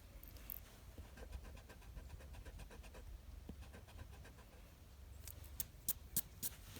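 Graphite pencil scratching on paper in quick, repeated short strokes, then about five sharp clicks close together near the end.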